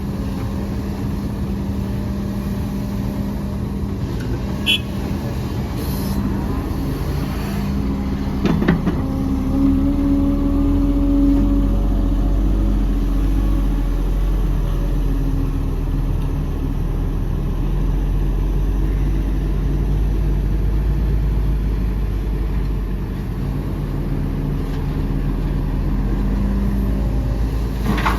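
Heavy diesel construction machinery running steadily, a continuous engine hum that grows deeper about nine seconds in, with a couple of brief knocks.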